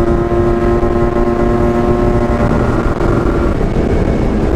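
Yamaha RX-King 135 cc two-stroke motorcycle engine running at a steady cruising note, with wind rushing over the microphone. A little past halfway the engine note weakens and goes rougher.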